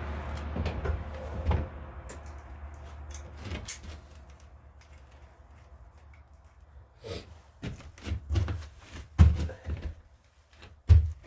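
Irregular knocks, clunks and clicks of hands handling tools and parts on a lawn tractor. A dull low rumble in the first few seconds fades out before the knocks begin.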